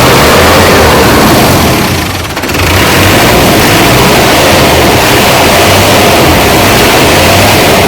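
Loud, steady engine-like running noise with a brief drop in level about two seconds in.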